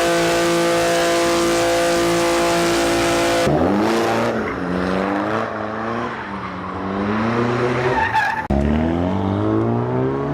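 Car engine held at steady high revs over a loud hiss of tyre squeal. About three and a half seconds in, it cuts abruptly to an engine revving up and down, with another sudden change near the end.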